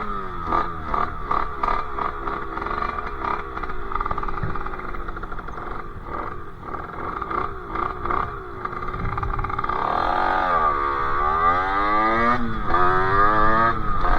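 Sherco 50cc two-stroke engine with a KRM expansion exhaust, riding along at a choppy, uneven drone, then the revs drop and climb back up twice in the last few seconds, getting louder toward the end.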